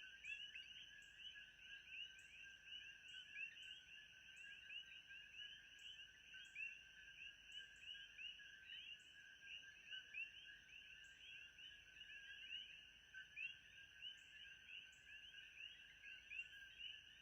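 Faint frog chorus: many short chirping calls overlapping without pause, over a steady high hum.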